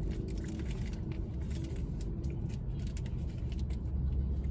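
Steady low rumble of a car's engine idling, heard from inside the cabin, with scattered small crinkles and clicks from paper burger wrappers being handled.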